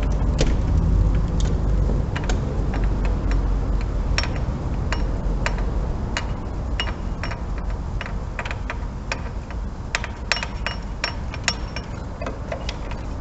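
Socket-wrench ratchet clicking in short, uneven strokes while backing out a loosened spark plug, with a low rumble under the first half.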